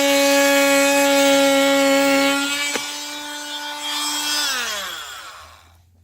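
Small handheld power tool cutting into hot tub plumbing, running with a steady high whine. It has a sharp click near the three-second mark, then is switched off about four and a half seconds in and winds down with falling pitch.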